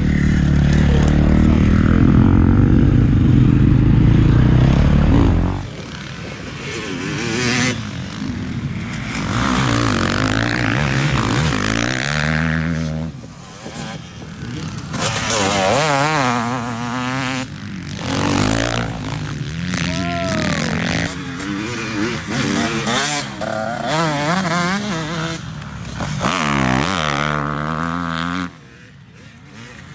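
Dirt bike engine revving up and down again and again as it is ridden, its pitch climbing and falling with each throttle blip and gear change. Background music plays for the first few seconds and cuts off sharply.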